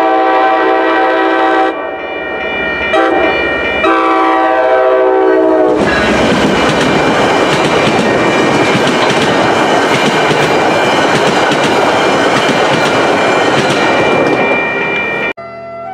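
MBTA commuter rail train sounding its horn for a grade crossing: the tail of a long blast, a short blast, then a final long blast. It then rushes past over the crossing with rumbling wheels and clickety-clack for about ten seconds. Music cuts in at the very end.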